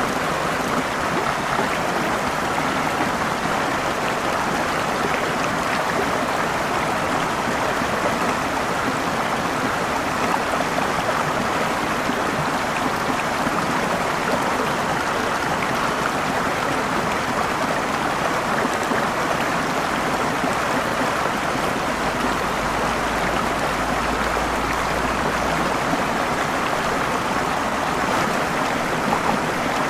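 A waterfall's falling water making a steady, unbroken rush of noise.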